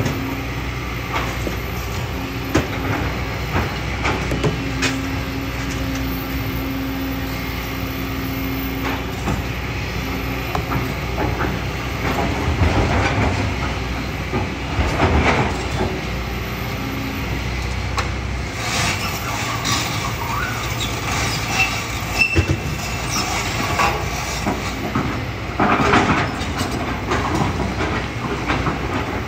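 Kobelco SK200 excavator running steadily under load, with gravel and rocks knocking and clattering repeatedly as it digs.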